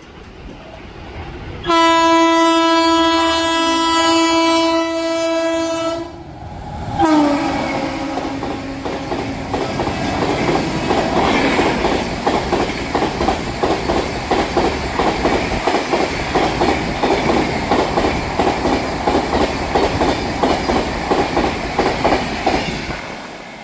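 Indian Railways electric locomotive's horn sounding one long steady blast, then a second blast whose pitch drops as the train passes at speed. Its coaches then clatter rapidly and evenly over the rail joints for a long stretch before fading.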